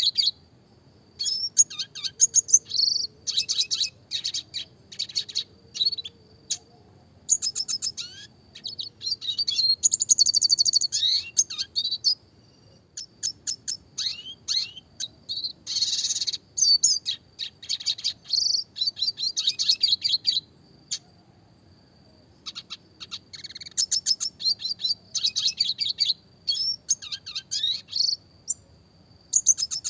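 Red siskin (Spinus cucullatus) singing: bursts of rapid, high chips and rolling trills, each a second or a few long, broken by short pauses.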